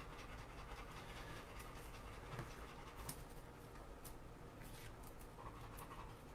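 Faint panting of a dog, with a few light clicks and rustles scattered through it.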